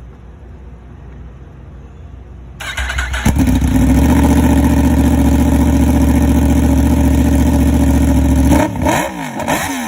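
Yamaha R1 inline-four engine through an aftermarket exhaust, starting up about three seconds in and idling steadily, then revved in several quick throttle blips near the end.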